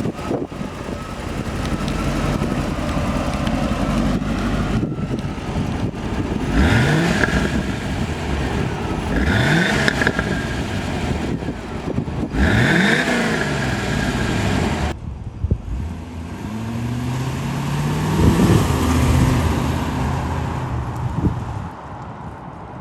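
1988 Chevrolet Corvette's 5.7-litre V8 idling and being blipped three times, each rev rising quickly and dropping back. About two-thirds of the way through, the sound changes abruptly to another stretch of the engine running, with a rise and fall in pitch near the end.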